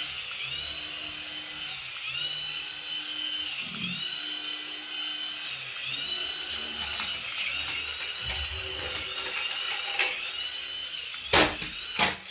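A remote-control toy whirring with a high whine that swells and dips about every second and a quarter. A few clicks follow near the end, and a louder knock is the loudest sound.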